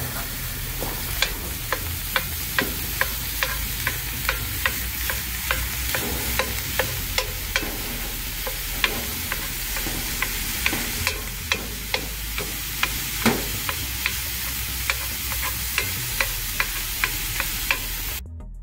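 Ground beef and onions frying in a cast iron skillet with a steady sizzle, while a utensil breaks up the meat, tapping and scraping against the pan about twice a second. The sound cuts off just before the end.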